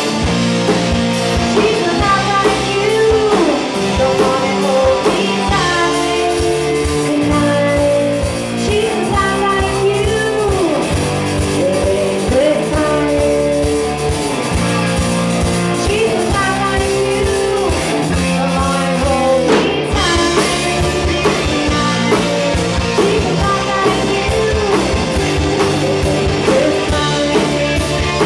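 Rock band playing a song: a singer over electric guitar, bass and a drum kit keeping a steady beat.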